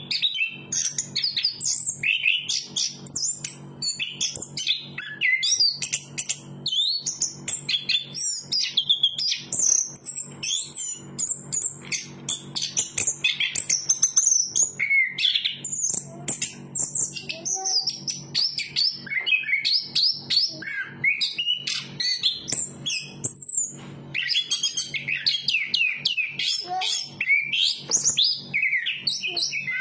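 Chestnut-capped thrush singing a long, continuous song of rapid, varied high chirps, trills and whistles, with one brief pause near the end.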